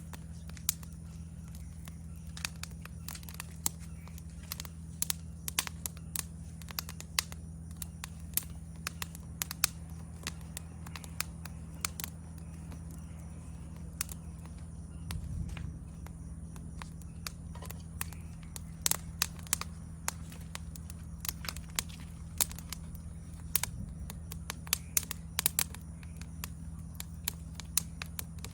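Wood fire crackling, with sharp irregular pops coming several a second, over a steady high-pitched insect trill and a low steady hum.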